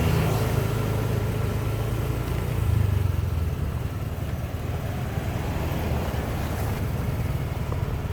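Motorcycle running steadily while being ridden along a road, its engine drone mixed with road noise.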